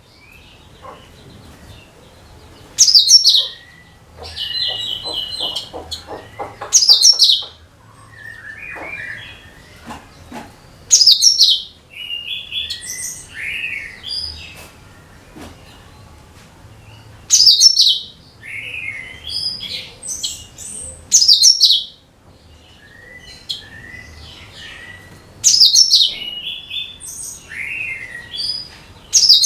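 A cucak kinoi singing: loud bursts of rapid, high, chattering notes come roughly every four seconds, with softer whistled chirps in between.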